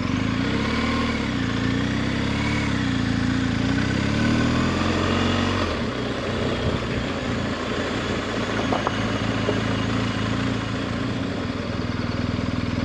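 Adventure motorcycle engine running under way, its note rising and falling with the throttle, over steady wind and road noise. About six seconds in, the engine note drops and holds lower and steadier.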